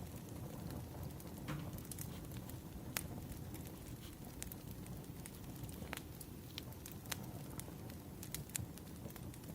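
Wood fire crackling: a steady low rumble with sharp, irregular pops and snaps several times a second.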